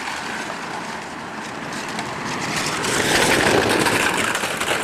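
Model stock cars rattling and clattering as they run along a built race track, the rattle swelling louder about halfway through.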